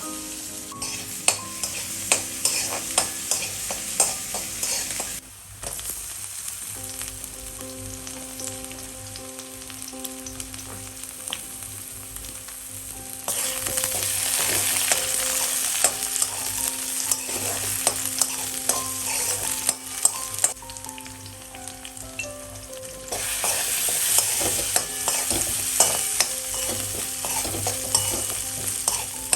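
Food frying and sizzling in a pan, stirred and scraped with a spatula, with many small clicks. The sizzle swells twice, from about halfway in and again near the end.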